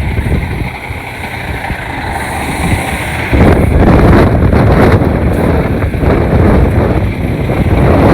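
Semi truck's diesel engine running with a low rumble as the truck pulls forward, growing louder about three seconds in, mixed with wind buffeting the microphone.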